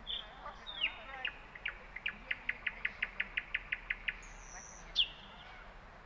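Songbirds calling: a few clear whistled notes, then a steady run of about fifteen short high notes at about five a second, followed by a high thin whistle and a loud falling note near the end.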